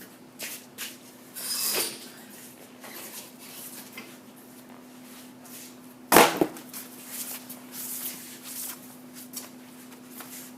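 Tire sidewall remover machine running with a steady low hum, scattered clicks and knocks, a short hiss about a second and a half in, and a loud double clank about six seconds in.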